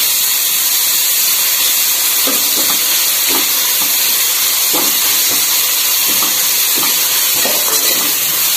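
Julienned vegetables sizzling steadily in hot oil in a wide metal kadai, with short, irregular scrapes of a steel spatula stir-frying them from about two seconds in.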